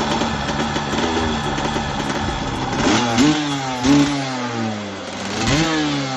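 Honda CR250 two-stroke single-cylinder engine running, its pitch wavering at first, then revved in three quick throttle blips that rise and fall back, about halfway through, a second later, and near the end.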